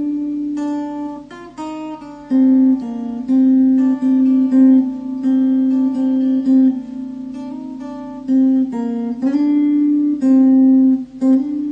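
Background music played on acoustic guitar: plucked and strummed notes in a moving melody.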